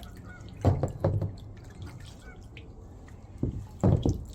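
Kayak paddle splashing in lake water, two pairs of strokes, one about a second in and the other near the end.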